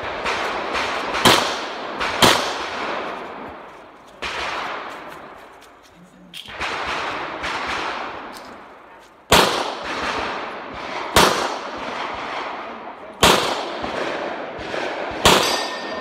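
9mm pistol shots echoing on a shooting range: two loud shots about a second apart near the start, then after a lull of fainter shots, four loud single shots about two seconds apart, each trailing off in echo.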